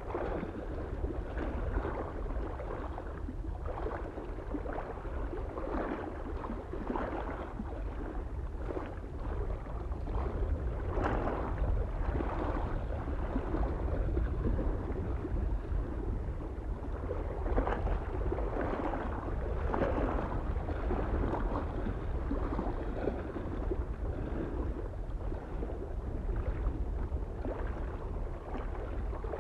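Small waves lapping and splashing irregularly against a mountain lake shore, over a steady low rumble of soft wind.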